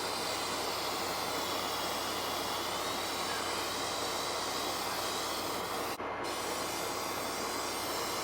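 Steady hissing noise with a brief break about six seconds in.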